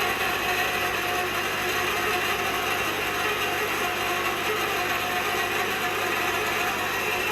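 Steady mechanical noise with a constant hum, from a manual hot-tapping machine being worked on an ammonia pipe.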